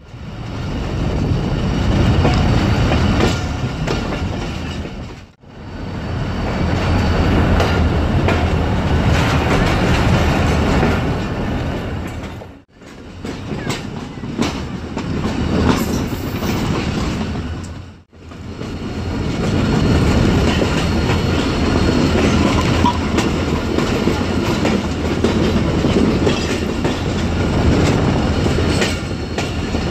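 Passenger train running along the track: a steady rumble of wheels on rail with the clickety-clack of rail joints. The sound drops out sharply and briefly three times.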